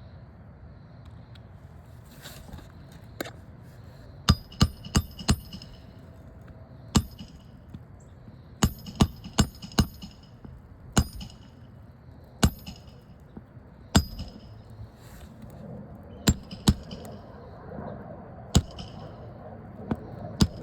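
Hammer blows driving roofing nails into shingles through a roof snake nailing tool, each strike a sharp metallic clink with a short ring. About seventeen strikes come in irregular groups of two to four.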